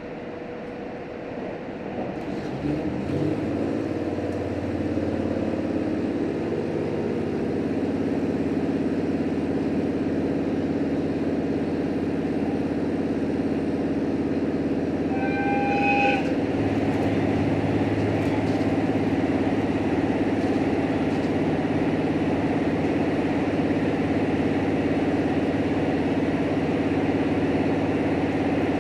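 H100 diesel-electric railcar powering up about two and a half seconds in, its engine and drive pitch stepping upward and then settling into steady running, heard from inside the cabin. A short horn toot sounds about halfway through.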